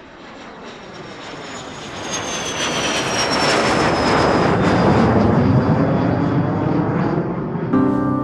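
Airliner engines building to a loud, steady rush of takeoff power, with a high whine that slowly falls in pitch. Piano music comes in just before the end.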